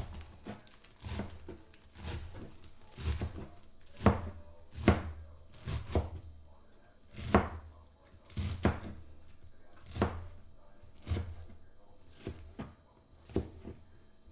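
Kitchen knife chopping vegetables on a cutting board: a long run of separate sharp knocks with a dull thud, uneven, about one to two a second.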